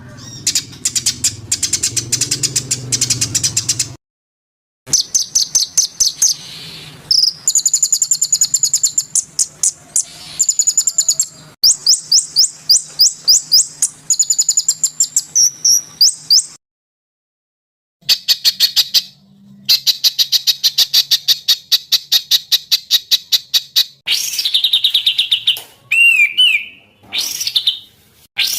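Songbird song recordings for training cage birds: rapid series of sharp, high chirps and fast trills, in several separate recordings cut together, with brief silences about four seconds in and again past the middle. Near the end a bird gives a few quick gliding whistles before another fast chirping series.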